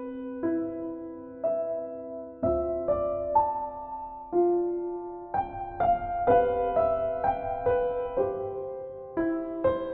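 Slow, gentle solo piano music: single notes and soft chords struck about once a second, each left to ring and fade.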